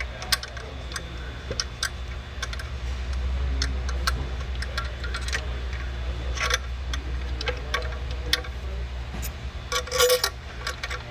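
Irregular light metallic clicks and ticks of hand tools and bolts during engine reassembly, with a few brighter ringing clinks of metal on metal, over a steady low hum.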